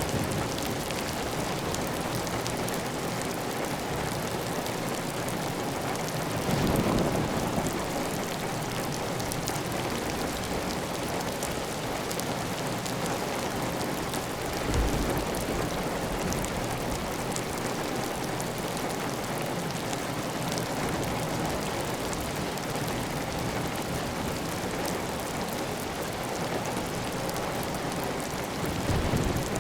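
Heavy rain on a tiled roof with water running steadily off the roof edge, a dense, even hiss of drops. It briefly swells louder and deeper around 7 and 15 seconds in and again near the end.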